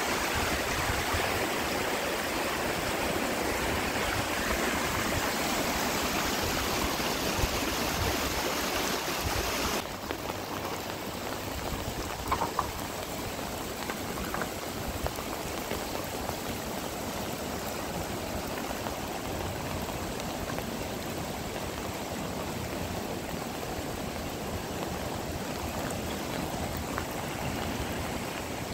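Steady hiss of heavy rain and running water. About ten seconds in it drops abruptly to a duller, quieter wash, with a few faint taps soon after.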